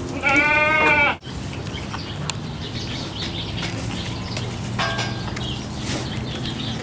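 A Boer goat gives one loud, wavering bleat about a second long near the start, then a faint short call later on. The uploader thinks its unusual calls may be because the female goat was ill.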